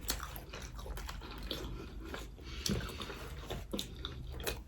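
Someone chewing a bite of chicken roll close to the microphone: scattered soft clicks and wet mouth sounds.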